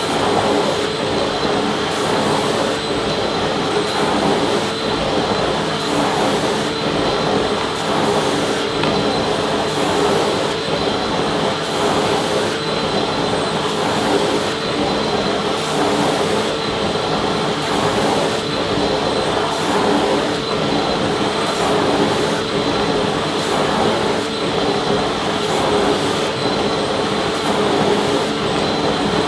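Vacuum cleaner running steadily: a continuous rushing noise with a constant motor hum and a thin high tone, unchanging throughout.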